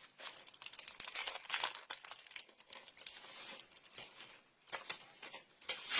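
Plastic crinkling and rustling as it is handled, in irregular bursts with a louder crackle near the end; typical of a clear stamp being taken out of its plastic storage sleeve.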